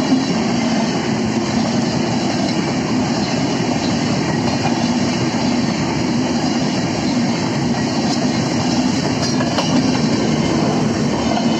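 Passenger coaches of a Bangladesh Railway intercity train rolling past close by, their steel wheels running steadily on the rails.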